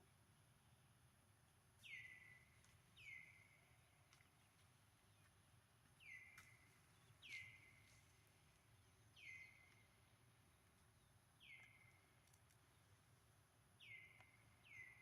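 Short, high-pitched animal calls, each one falling quickly in pitch, repeated about eight times at uneven gaps of one to two seconds over a faint steady background.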